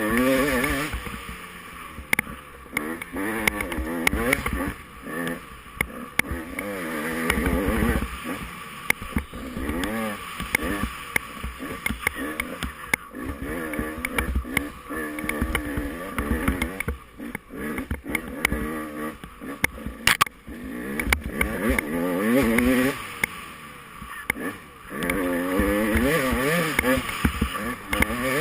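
Off-road racing engine revving up and down over and over as the throttle is worked through rough terrain, with frequent knocks and rattles from the ride and rushing noise throughout.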